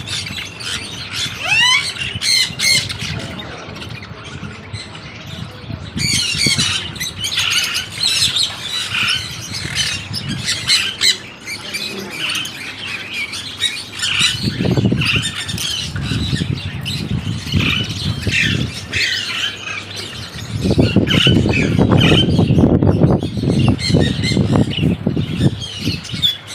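Many birds calling throughout, with short calls tumbling over one another. A low rumble rises briefly about halfway through and again for several seconds near the end, typical of wind or sea on an outdoor recording.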